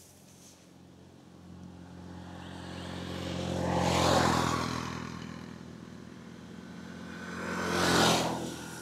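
Two motor vehicles passing close by on the road, one after the other. The engine sound and tyre noise swell to a peak about four seconds in, ease off, and then a second pass peaks near the end.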